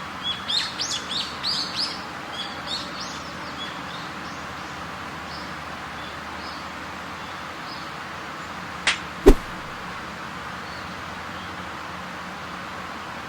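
Birds chirping in a quick series of short high calls for the first few seconds, then two sharp knocks about half a second apart near the middle, over a steady background hiss.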